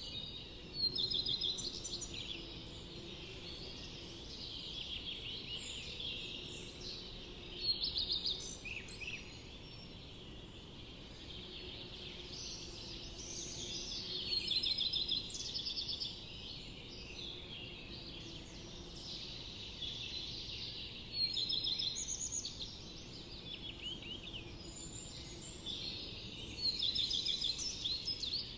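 Forest birds singing as a dense chorus of chirps and trills, with a louder trilled phrase recurring about every six or seven seconds.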